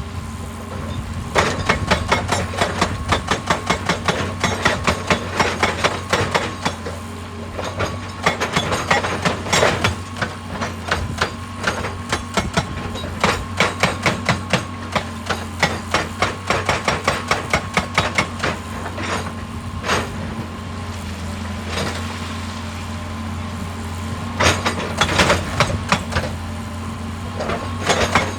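Excavator-mounted hydraulic breaker hammering rock in rapid runs of blows, over the steady running of the excavator's diesel engine. The blows stop for a few seconds about two-thirds of the way through, leaving the engine running on its own, then start again.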